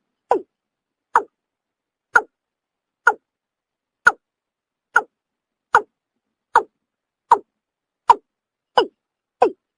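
Watercock (kora) calling: a series of short, deep notes, each falling in pitch, about one a second and coming faster near the end.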